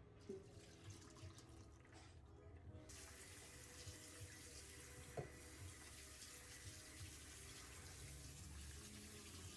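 A water tap is turned on about three seconds in, and water runs steadily and quietly into a sink. There are a few small knocks before it and a single sharp click midway.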